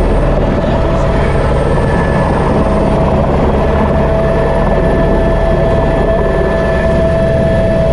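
Helicopter in flight heard from inside the cabin: a loud, steady drone of engine and rotor with a constant whine over it.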